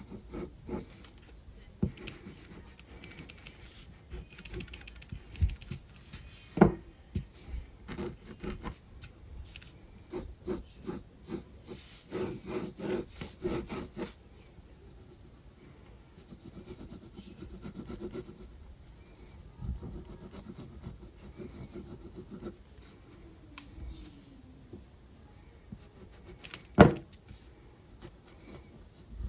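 Graphite pencil scratching and shading on sketchbook paper in many quick strokes, densest about halfway through. Two sharp taps stand out, one about a quarter of the way in and one near the end.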